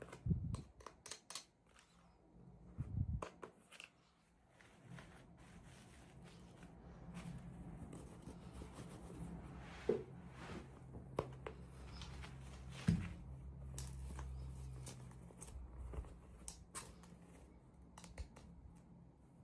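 Hands unboxing small plastic toys and their packaging: scattered clicks, taps and soft rustling, with two sharper clicks in the second half. A low steady hum sits underneath through the middle stretch.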